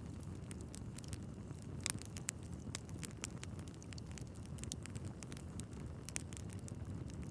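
Wood fire burning in a fireplace: a steady low rumble of flames with irregular crackles and sharp pops from the burning logs, the loudest pops about two seconds in and again about six seconds in.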